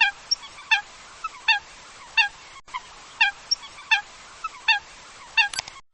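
A wild bird giving short, repeated calls, roughly one every three-quarters of a second, over a steady hiss.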